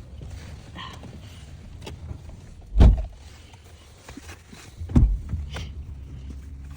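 Two dull thumps about two seconds apart, over a steady low rumble.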